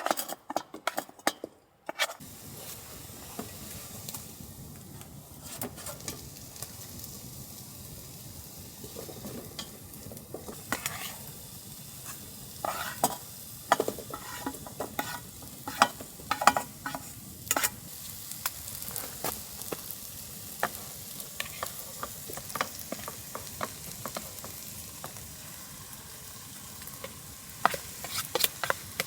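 Food sizzling in a hot pan. The sizzle starts suddenly about two seconds in and holds steady, with scattered clicks and scrapes of a utensil stirring.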